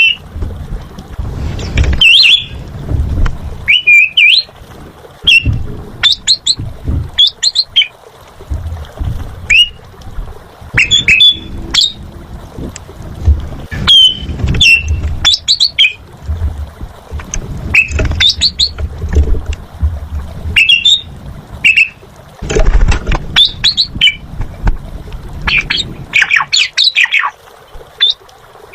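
Asian pied starling (jalak suren) singing loudly, a run of short whistles, chattering notes and harsh squawks in irregular bursts with brief pauses between phrases.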